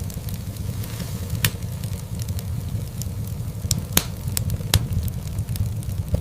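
Wood fire crackling in a fireplace: a steady low rumble of burning logs with scattered sharp pops and ticks. The loudest pops come about a second and a half in, at four seconds and just before five seconds.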